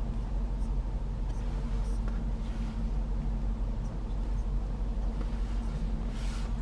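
Steady low hum of the 2021 Range Rover Sport SVR's 5.0-litre supercharged V8 idling, heard inside the cabin.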